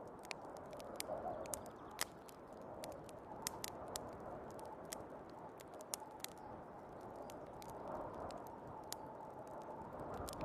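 Wood fire crackling in a fireplace, with sharp irregular pops, over the steady rush of snowstorm wind.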